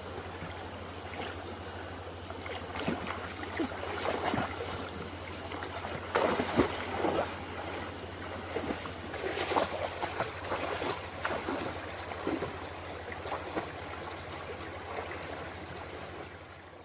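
Water splashing and trickling, with irregular louder splashes, over a steady low hum.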